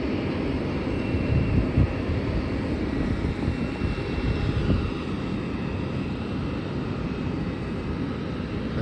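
Jet engines of a taxiing Airbus A350 airliner (Rolls-Royce Trent XWB turbofans) at low power: a steady rumble with a faint high whine.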